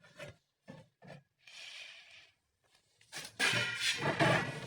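A few light knocks and a short scrape from the metal cover of a PA amplifier being handled and opened. Music comes in about three seconds in and is the loudest sound.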